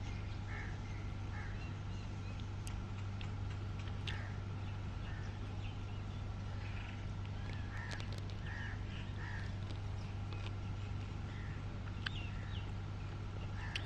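Short bird calls, crow-like caws, repeating at irregular intervals over a steady low hum, with a few sharp clicks.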